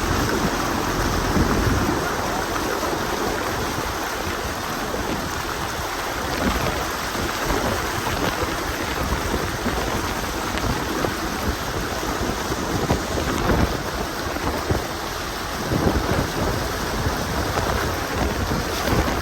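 Tropical-storm rain falling steadily and hard, with an uneven low rumble underneath.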